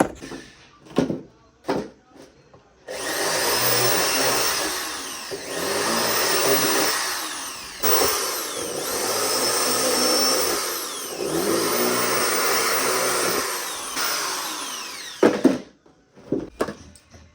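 A power tool's electric motor runs loudly for about twelve seconds, its pitch swelling and dipping in a repeating cycle about every two and a half seconds. Scattered clicks and knocks come before it starts and after it stops.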